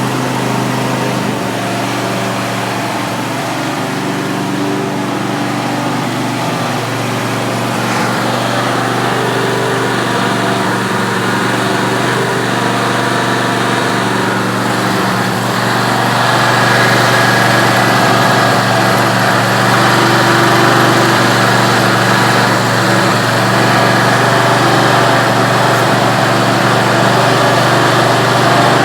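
Craftsman PGT9500 garden tractor's 30-horsepower engine running steadily, its electronically controlled throttle setting the speed. About halfway through it gets louder, with a brighter hum on top.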